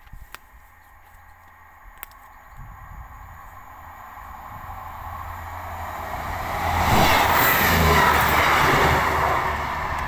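Train approaching along the line, its rumble and rail noise swelling steadily and loudest about seven seconds in.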